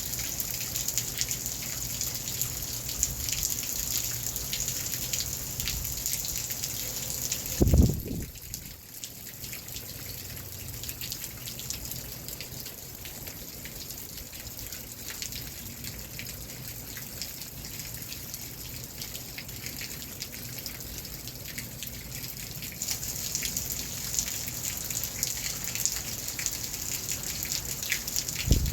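Rain falling steadily, full of fine drip and patter ticks. A short, dull low thump stands out about eight seconds in, and another comes at the very end.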